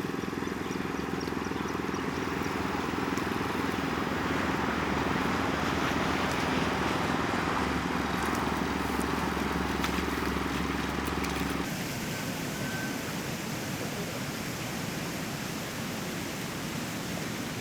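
A small engine running steadily over a noisy background, cutting off abruptly about twelve seconds in, after which only a steady hiss-like noise remains.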